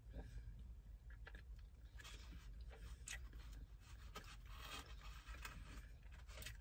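Faint chewing of a sandwich, with scattered small mouth clicks and short rustles.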